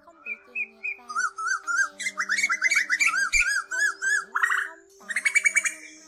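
Asian koel calling: a long run of short, arching notes, quickening into fast chattering bursts.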